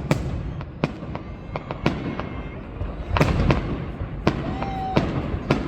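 High-altitude aerial fireworks going off: a rapid string of sharp bangs, densest about three seconds in, over a low rumble, with a few short whistling tones in between.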